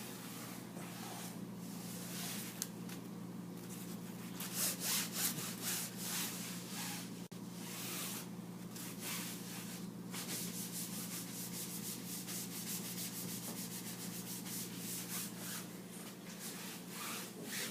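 A surface being rubbed or scrubbed back and forth in uneven strokes that come quicker in the second half, over a steady low hum.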